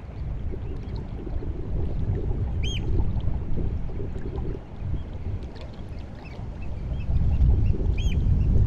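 Sea water at the incoming tide lapping and washing, heard as an uneven low rumble. A bird gives short, sharp, arched calls about three seconds in and again near the end, with a few fainter calls between.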